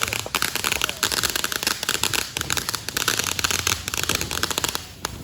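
Fireworks crackling in a rapid, dense run of small pops that cuts off suddenly near the end.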